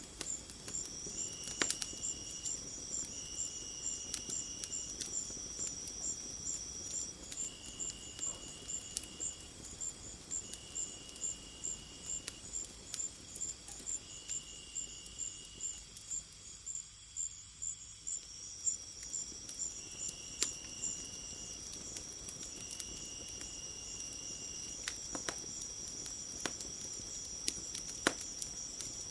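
Insects chirping in a forest at night: a fast, even high chirp, a steady high trill and a lower buzz in phrases about a second and a half long, with the chirping dipping briefly past the middle. Scattered sharp crackles of a wood fire sound over it.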